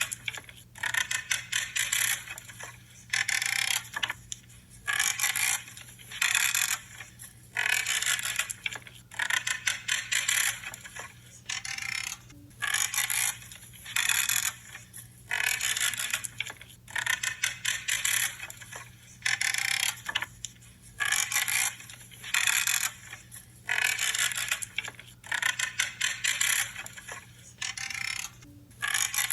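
Branches being trimmed, each cut a creaking, crackling crunch of about half a second, repeating roughly once a second.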